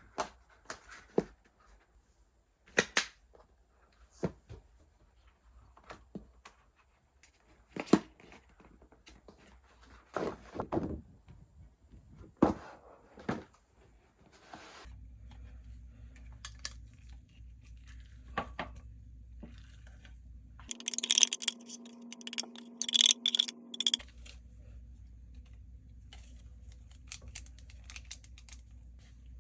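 Small objects and packaging being handled: scattered sharp taps, clicks and rustles. About halfway through a steady low hum comes in, with a louder burst of clatter a few seconds later.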